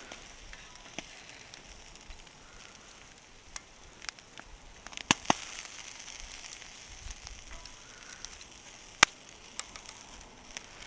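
Wood fire crackling: scattered sharp pops over a faint steady hiss, the loudest pop about nine seconds in.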